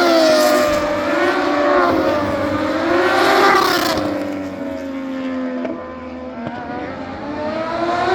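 Moto2 racing motorcycles with Triumph 765 cc three-cylinder engines revving up and down as they run on the track. The engine pitch climbs to a peak about three seconds in, falls away and quietens in the middle, then rises again near the end.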